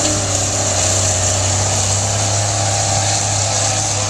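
Semi truck's diesel engine running steadily with a constant low hum.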